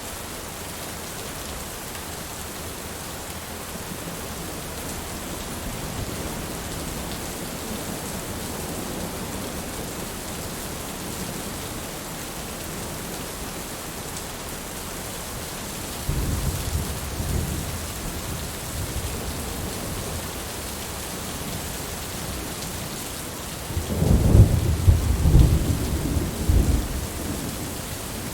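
Steady rain falling, with a low rumble of thunder about two-thirds of the way through and a louder, rolling peal of thunder near the end.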